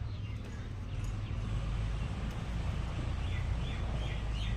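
Birds chirping in a series of short, repeated calls that start about halfway through, over a steady low rumble.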